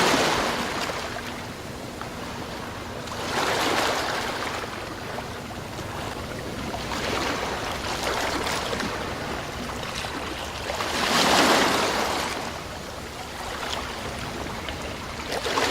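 Sea waves breaking and washing ashore: a surge of surf rises and falls about every three to four seconds over a steady hiss of water, the strongest about eleven seconds in.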